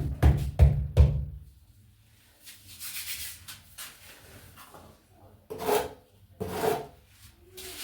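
Tile adhesive being worked with a trowel against the wall. A quick run of strokes, about three a second, comes first, then softer scraping, then two louder scrapes near the end.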